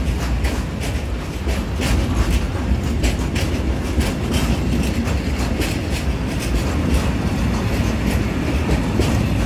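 Freight train of open-top coal wagons rolling past at close range: a steady low rumble with repeated clacks of the wheelsets over the rail joints.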